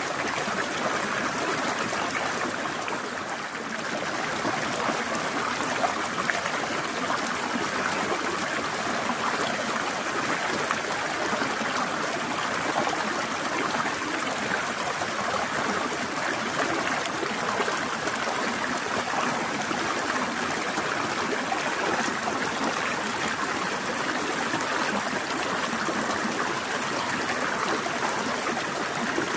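Water in a small stream flowing and trickling over rocks, a steady rushing sound with a slight dip about three seconds in.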